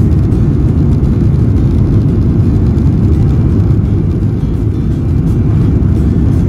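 Steady low rumble of a jet airliner's engines and airflow, heard from inside the cabin.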